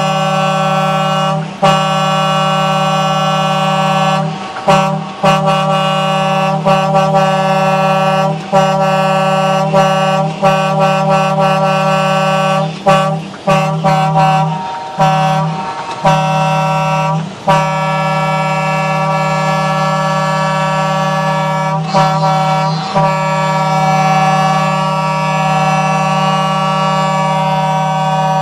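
Truck air horns sounding together in a loud, sustained chord of several tones, cut by brief gaps and restarts every second or two for the first twenty seconds, then held steady to the end.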